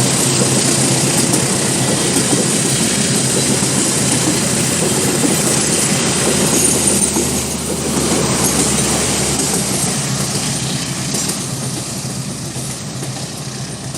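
Train passing at speed, a loud, steady rush of wheels and cars on the rails that fades gradually over the second half.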